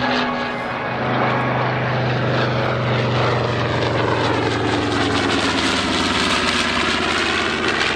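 Radial piston engines of a WWII bomber flying past, a loud, steady propeller drone that swells and shifts in tone as the aircraft passes overhead.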